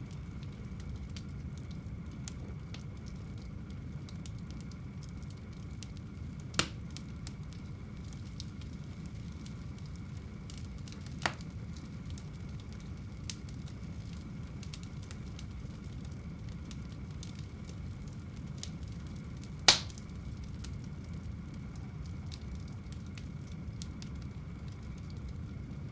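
Wood fire burning in a home fireplace: a steady low rumble of flames with faint crackling, and three sharp pops, the loudest near the end.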